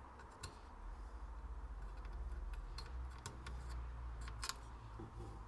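Small scattered clicks and ticks of metal test probes tapping and scraping on circuit-board components, over a low steady hum.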